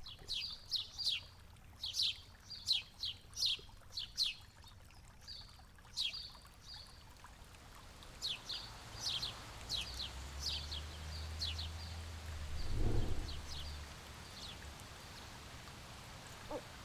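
Forest birds calling: a run of many short, sharp, down-sliding chirps in quick succession, thinning out toward the end. A low rumble swells past the middle, with a dull thump at its loudest.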